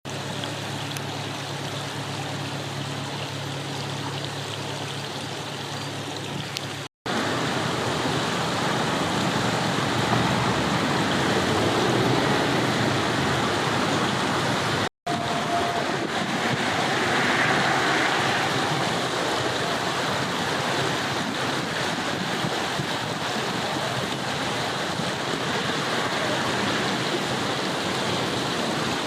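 River water flowing over stones: a steady rushing noise, briefly cut off twice, with a low steady hum under it for the first several seconds.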